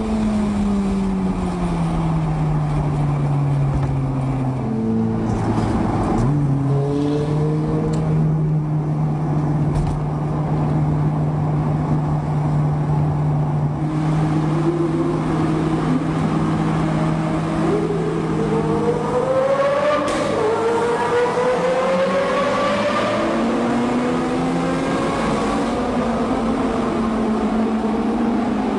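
Car engines at speed: the engine note falls over the first few seconds, holds steady for a while, then climbs in several rising sweeps as the cars accelerate about two-thirds of the way in.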